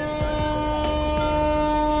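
Train horn held in one long steady blast, growing a little louder toward the end, with a few faint clicks from the rails.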